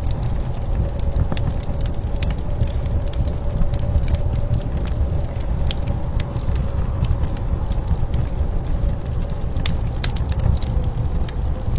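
Wood fire crackling with irregular sharp pops, over the steady low rumble of blizzard wind with a faint wavering whistle.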